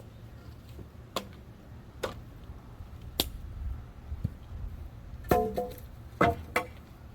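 Irregular sharp knocks and clanks from hand-tool work on a wooden fence gate, about six in all, a few ringing briefly like metal. The loudest come as a short cluster about five seconds in and another a second later.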